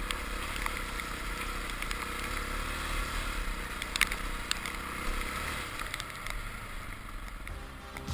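Adventure motorcycle riding on a dirt road: the engine runs steadily under a haze of wind and road noise, with a few sharp ticks, the loudest about four seconds in.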